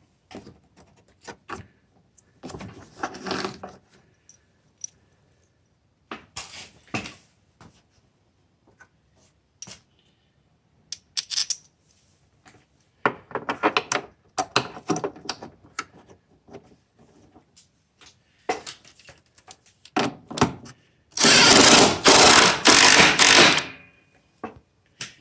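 Scattered clicks, knocks and rattles of tools and metal parts being handled while fitting engine motor mounts. Near the end comes a loud, noisy burst of about three seconds, broken a few times.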